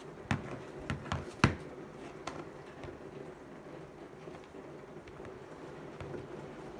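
Hand crank of a Sony ICF-B88 crank-charging radio being turned to generate power, a steady low whirring from the dynamo, with a few sharp clicks of handling in the first two seconds.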